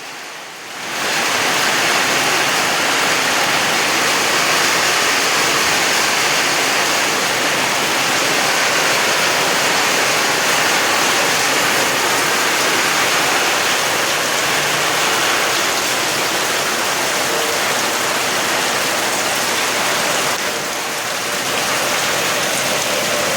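Heavy rain falling steadily, a dense even hiss that swells in over the first second and eases slightly for a moment near the end.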